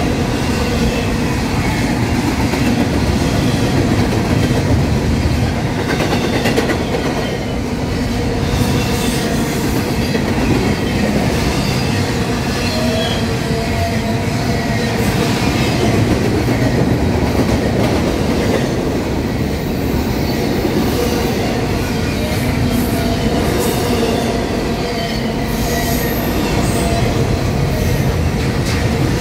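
Double-stack container well cars of a freight train rolling past close by: a steady loud rumble and clatter of steel wheels on the rails, with thin wheel squeals coming and going.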